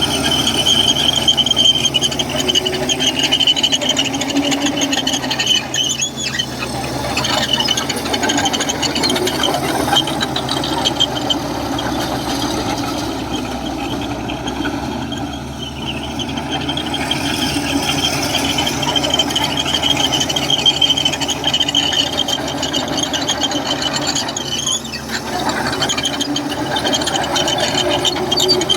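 Komatsu crawler bulldozer working, its diesel engine running under a continuous high squeal from the steel tracks. The squeal eases briefly about halfway through and again near the end.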